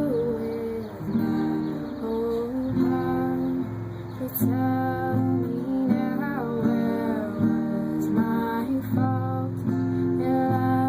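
Acoustic guitar strummed steadily, playing chords, possibly with a woman singing over it.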